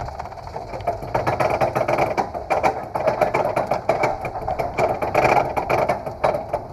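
Roller coaster car running on its track: a constant rattle of rapid clicks with a rushing noise.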